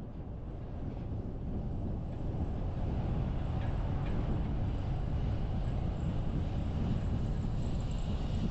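Steady road and engine noise of a car driving, fading in over the first couple of seconds and then holding even.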